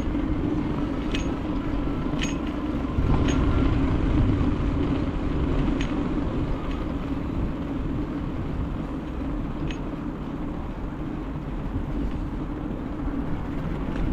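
Steady rumbling noise of a bicycle ride, with a few sharp clicks scattered through it.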